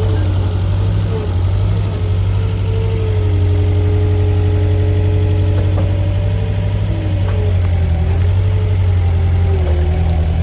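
Skid steer engine running steadily and loud as the machine works, a low drone with a higher whine over it that wavers up and down in pitch.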